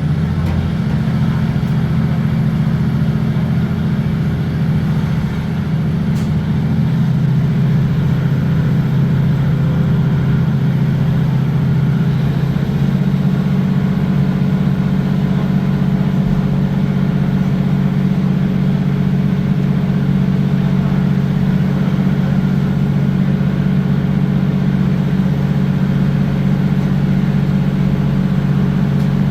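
Diesel train engine running steadily as a loud, even drone heard from inside the carriage, with the engine note shifting slightly about halfway through.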